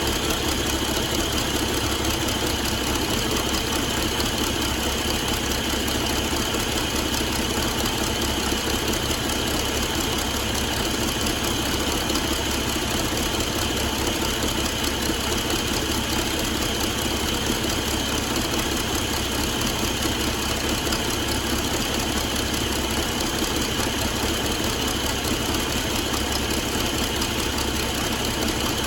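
Cummins ISX15 inline-six diesel engine idling steadily.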